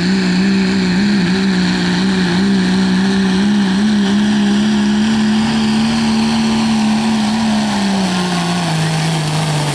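Diesel pulling truck's engine running wide open under heavy load down the pull track: a steady, high-revving drone with a faint high whistle over it. The revs sag slightly near the end as the load builds.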